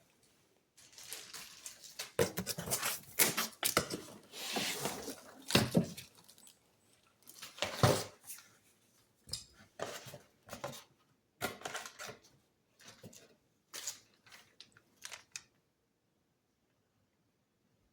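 Unboxing noises: cardboard and plastic packaging rustling and tearing, with clicks and knocks of hard plastic parts being handled. The noises are irregular and stop about two seconds before the end.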